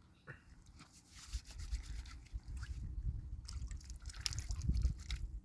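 Spring water trickling and splashing, an uneven hiss with small spattering ticks over a low rumble.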